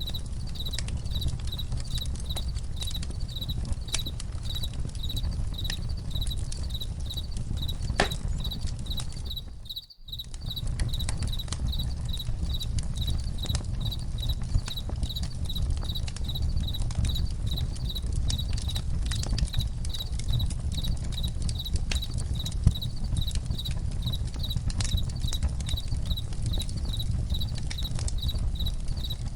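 Campfire crackling and popping with a low steady rumble, while crickets chirp in an even pulse about twice a second. The whole sound briefly drops away about ten seconds in.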